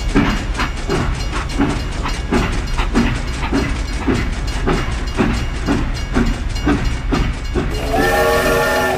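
Train running with a rhythmic clickety-clack of wheels over rail joints, about two clacks a second; a multi-tone train horn starts sounding near the end.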